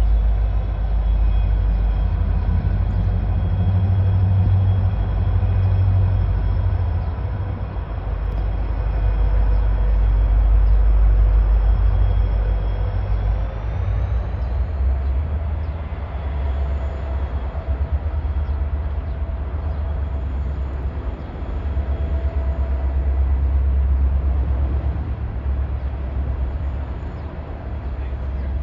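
EMD SD40-2 diesel-electric locomotive's 16-cylinder engine running as it passes, then the steady rumble of coal hopper cars rolling by on the rails.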